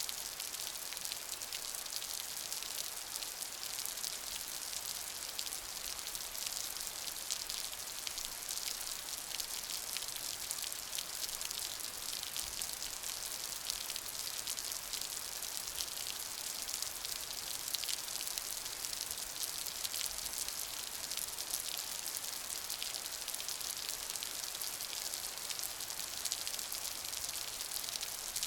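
Steady rain: a dense, mostly high-pitched hiss of falling drops, flecked with many small sharp drop ticks.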